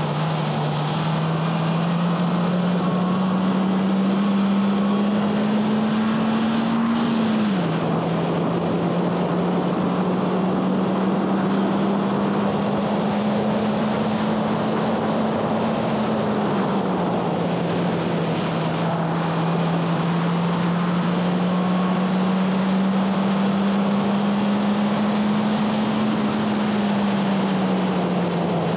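2011 Honda Fit Sport's four-cylinder engine running hard under load, its note climbing slowly in pitch, dropping sharply once about seven seconds in and easing down twice more later, over a constant rush of wind and tyre noise.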